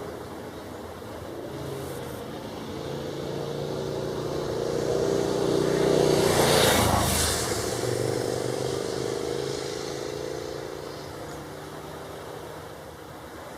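A motor vehicle passing by: its engine and road noise grow steadily louder, peak about halfway through, then fade away, the engine tone dropping a little as it goes past.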